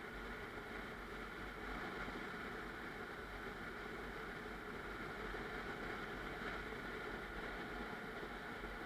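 Steady road and engine noise of a car driving, heard from inside the cabin: a constant low rumble with a hiss of tyres over it.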